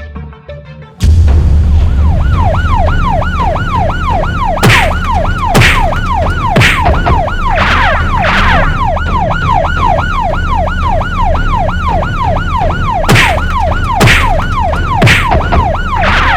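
An emergency-vehicle siren in rapid yelp mode switches on about a second in, sweeping up and down about three times a second over a steady low engine rumble. Several short, louder bursts of noise cut across it.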